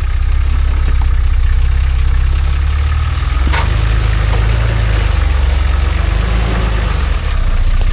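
Off-road crawler truck's engine running at low revs as it works slowly over rocks, a deep steady rumble. There is a sharp knock about three and a half seconds in.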